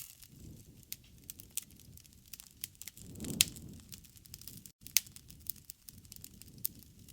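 Wood fire crackling with irregular sharp pops over a low rumble of burning, and one louder pop a little past the middle.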